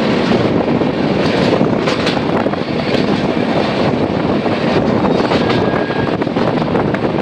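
Passenger train in motion heard from an open coach window: a loud, steady rumbling rush of wheels on rails and passing air, with a few faint clicks.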